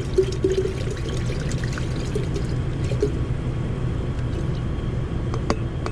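Liquid being poured into a container, a steady pour with a few small clicks, as the solution is topped up to the level needed.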